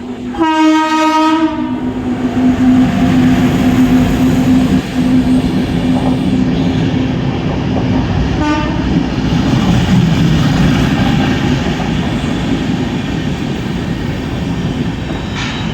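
Mumbai suburban local electric train sounding a horn for about a second at the start and a shorter blast about eight seconds later, over the loud continuous rumble and clatter of the train moving on the rails.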